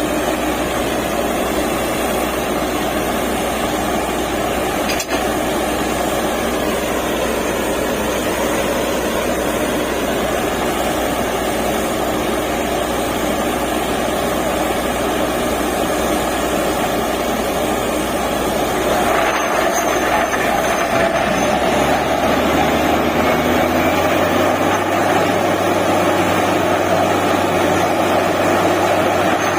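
DTH borewell drilling rig running: the steady, loud noise of its heavy engine and air-driven drilling, growing a little louder and changing in tone about two-thirds of the way through.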